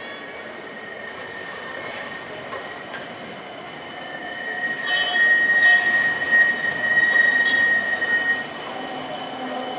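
Tram wheels squealing on the rails over rolling noise: a high, steady squeal that swells about halfway through and dies away shortly before the end.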